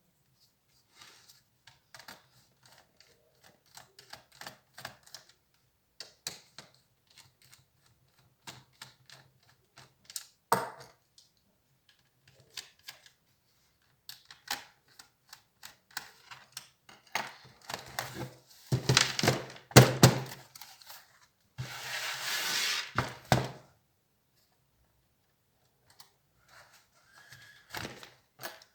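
Clicks, taps and knocks as an HP Compaq 6910p laptop's parts are handled and worked on during disassembly, with two louder, longer scraping stretches about two-thirds of the way in.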